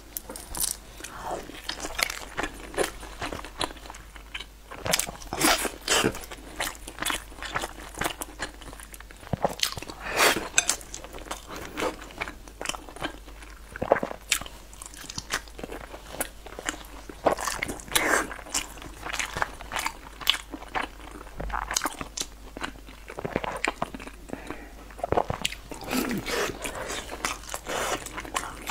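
A person biting and chewing soft, sauce-coated food close to a clip-on microphone: wet mouth clicks and smacks at irregular intervals throughout.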